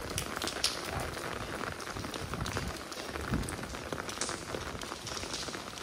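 Steady rain falling on a wet cobbled street: an even hiss dotted with many separate drop ticks, with an occasional soft low thump.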